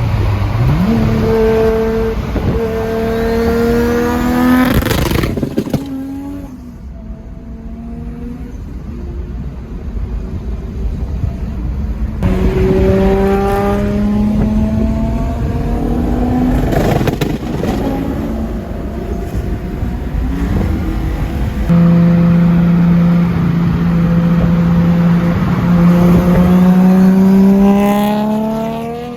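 Modified MK4 Toyota Supra's turbocharged inline-six accelerating hard in three full-throttle pulls, its pitch climbing through each run and dropping between them. Sharp cracks from the anti-lag come between the pulls.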